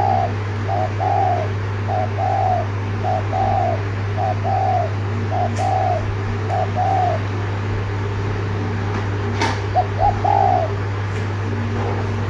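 Spotted dove giving its rapid courtship coo ('thúc gù'): a string of short two-part coos, a clipped note then a longer one, about one a second. The coos pause briefly and resume near the end, over a steady low hum.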